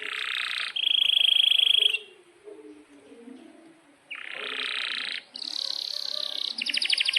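Domestic canary singing: short phrases and fast rolling trills, with a pause of about two seconds in the middle.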